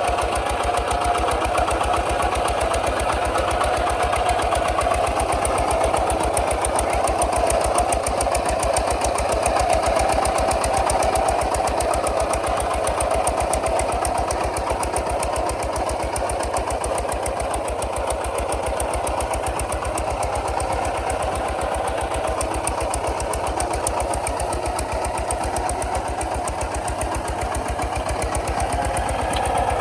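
Kubota RT140 DI single-cylinder diesel engine running steadily with an even, rapid chugging beat.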